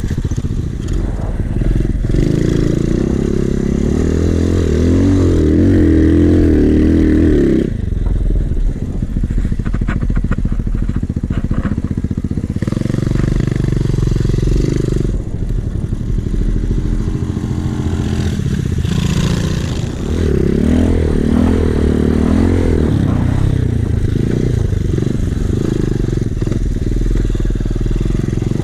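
Small Chinese 125cc pit bike engine running as the bike is ridden, revving up and down with the throttle. It is loudest for the first several seconds and again in the last third, dropping back briefly about eight seconds in.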